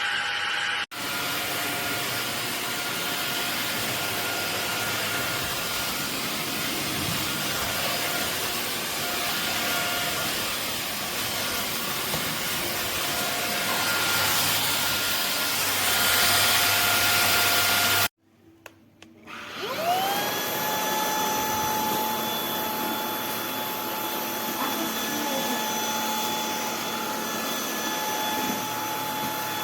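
Stick vacuum cleaner running with a steady whooshing motor noise, cutting off suddenly past the middle. About a second later the motor starts again, its whine rising quickly in pitch as it spins up, then running steadily.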